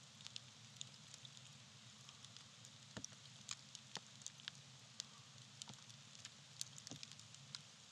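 Small campfire of dry tree bark burning: faint, irregular crackles and pops scattered over a soft hiss, with a few sharper pops, one about three seconds in.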